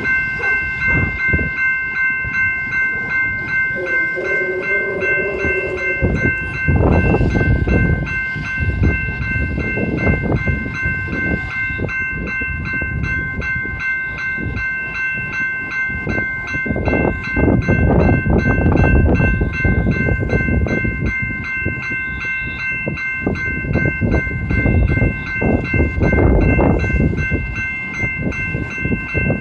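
Amtrak passenger train passing over a grade crossing, its wheels rumbling and clacking on the rails in uneven surges. A crossing warning bell rings steadily in a fast, even pulse of high tones the whole time.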